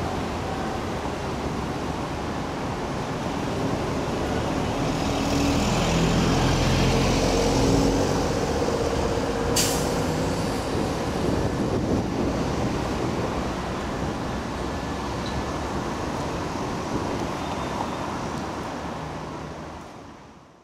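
A train of passenger coaches rolling slowly along the tracks, mixed with road traffic noise. The noise swells in the middle, with a brief high hiss about ten seconds in, and fades out at the end.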